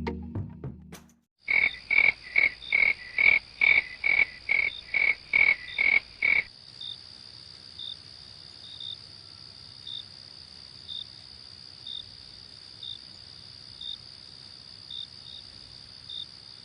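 A frog croaking in a quick, even series of about a dozen calls, roughly two a second, which stops about six seconds in. After that a steady, high insect trill carries on, with a faint chirp about once a second.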